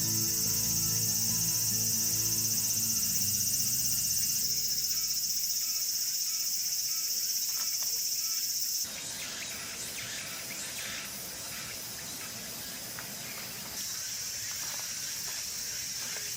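A dense chorus of insects chirring steadily at a high pitch. Its loudness jumps abruptly up and down a few times, as the recording cuts between spots.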